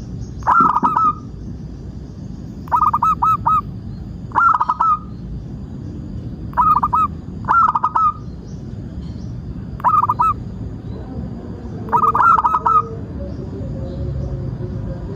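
Zebra dove (perkutut) cooing: short bursts of quick staccato notes, repeated every second or two, over a steady low background rumble and a faint thin high tone.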